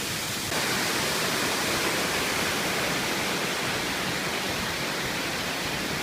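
Waterfall pouring: a steady rush of falling water, a little louder from about half a second in.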